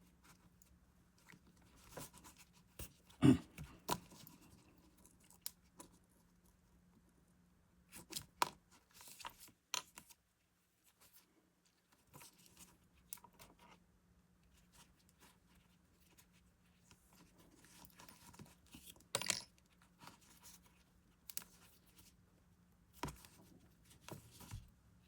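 Scattered small handling sounds of hands working yarn with crochet tools: soft rustles, light taps and clicks, with a sharper knock a few seconds in and another toward the end. A faint steady low hum runs underneath.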